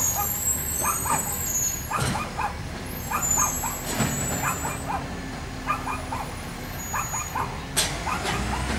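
Recycling garbage truck's diesel engine running, with high hisses of air, while short sharp calls repeat many times throughout; a sudden sharp burst of noise comes near the end.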